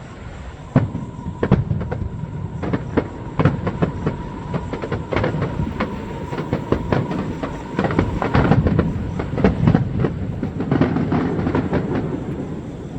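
Fireworks going off in quick, irregular succession: many sharp bangs and crackles over a continuous rumble, with a faint steady high tone through most of it.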